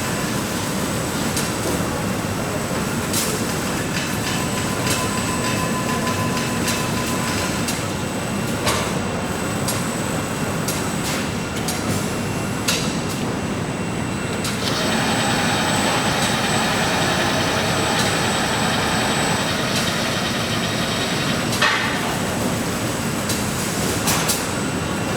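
Steady factory machinery noise with scattered sharp clanks. Partway through, another machine runs for about five seconds, adding a higher, busier noise, then stops.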